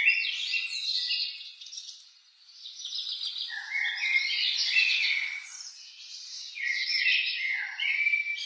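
Songbird singing: quick chirps and whistled notes in three phrases with short pauses between them.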